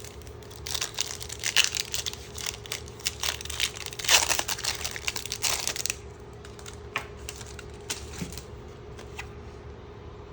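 Foil booster-pack wrapper being crinkled and torn open: a dense run of crackles lasting about five seconds, then a few scattered light crackles. A steady hum sits underneath.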